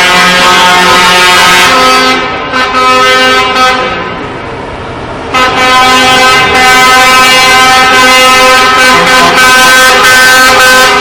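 Truck air horns sounding in long, loud blasts, easing off about two seconds in and coming back strongly about five and a half seconds in.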